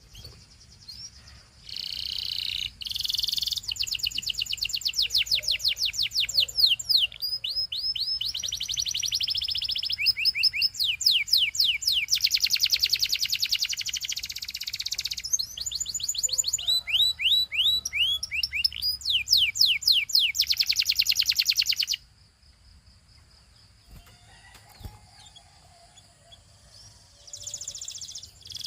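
Male canary singing a long song of rapid trills and rolls, fast repeated down-sweeping whistled notes alternating with buzzy stretches. The song breaks off abruptly about three-quarters of the way through, and a short burst of song returns near the end.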